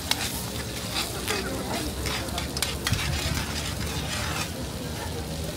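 Food sizzling in a metal wok on a tabletop burner while it is stirred with a metal ladle. The ladle scrapes and clinks against the pan many times over the steady frying hiss.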